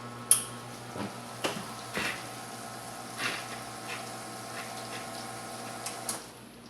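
Nuova Simonelli Aurelia espresso machine running, a steady hum with watery sounds, as a group is run during a test. It begins with a sharp click just after the start, has a few lighter clicks and knocks in between, and cuts off with a click about six seconds in.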